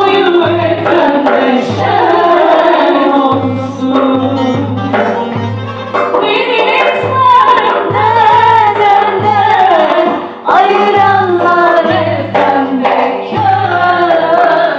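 Voices singing a Turkish folk song (türkü), with a low drum beating under the melody.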